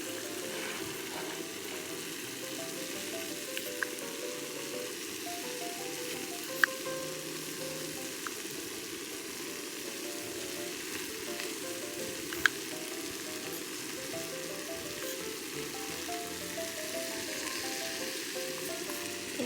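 Rice frying in a hot pan for pepper rice, a steady sizzle throughout. Two sharp clicks stand out, about six and twelve seconds in.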